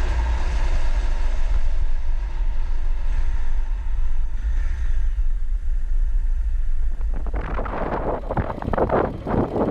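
Motorcycle on the move, with heavy wind rumble on the microphone over the engine. About seven seconds in the sound turns louder and rougher.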